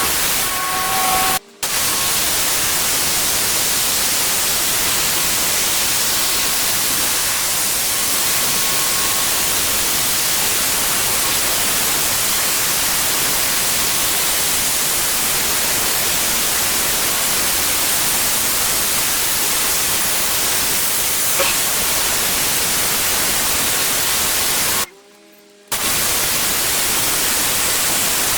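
Pressure washer jet spraying water in a steady, loud hiss. It cuts out briefly twice, about a second and a half in and again near the end.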